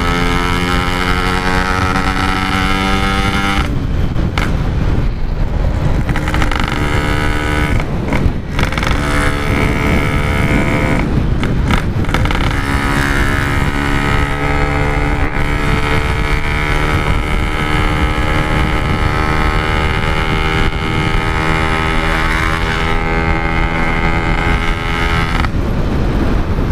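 Yamaha RX-King 135cc single-cylinder two-stroke motorcycle engine under way with wind rush, heard from the rider's camera. Its note holds and slides in pitch, cutting out briefly four times as the throttle closes, consistent with gear changes.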